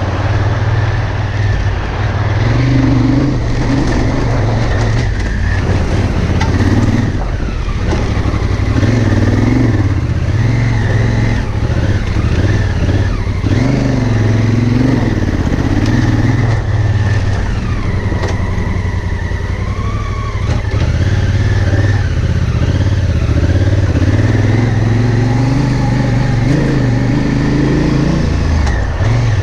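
Honda Africa Twin CRF1000L's 998 cc parallel-twin engine running on the move, its note rising and falling with the throttle.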